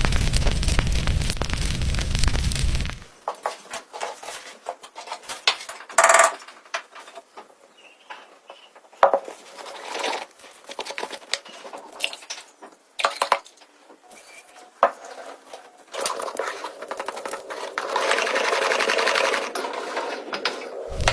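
Kitchen clatter: a series of sharp clicks and knocks, like utensils and dishes being handled. A steady hiss sets in for the last few seconds. It is preceded by a loud deep-toned sound that cuts off about three seconds in.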